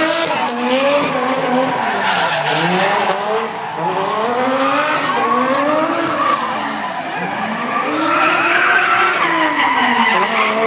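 Nissan Silvia S15 drift car drifting, its engine revving up and down over and over, with tyres squealing and skidding throughout.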